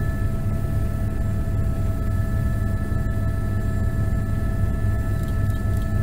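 Helicopter running steadily: a constant low drone with a steady high whine above it.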